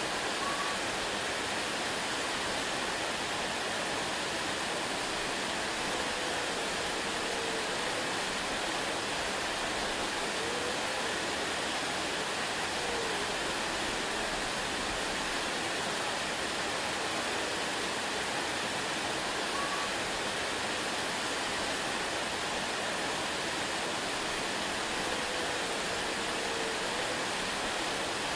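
Waterfall rushing in a steady, even hiss of falling water, unchanging throughout.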